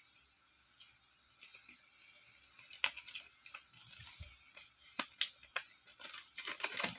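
A folded paper poster being handled and unfolded: irregular crinkling and rustling with sharp crackles, sparse at first and busier and louder from about three seconds in.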